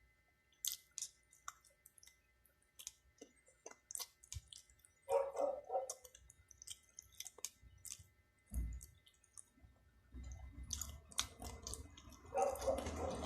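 Close-up mouth sounds of a person eating: wet chewing and lip smacks, heard as an irregular scatter of short clicks. A denser stretch of noise starts near the end.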